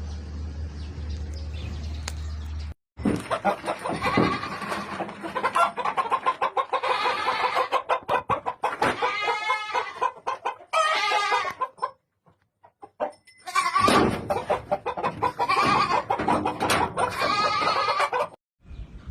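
Shamo game fowl calling, roosters crowing and birds clucking over one another, in several stretches that cut off and start again abruptly. Before the calls begin there is a low steady hum.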